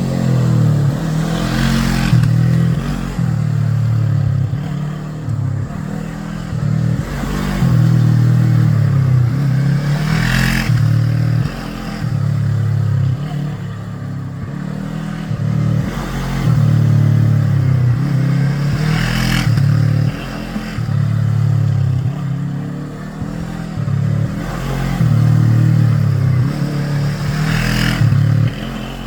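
Motorcycle engine run hard on a track, its note rising and falling in steps as the rider works through the gears. A brief rushing swell comes every eight or nine seconds.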